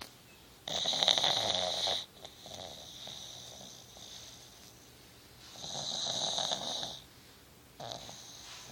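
Sleeping pug snoring: two loud, drawn-out snoring breaths of about a second and a half each, a few seconds apart, with softer snuffling breaths between them and a third, softer snore near the end.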